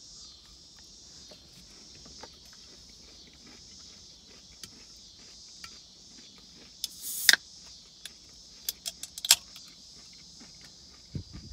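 Someone quietly chewing a small chocolate-coated crisped-rice protein bar, with a few sharp crinkling clicks, the loudest about seven seconds in and a cluster about nine seconds in, over a steady high insect trill.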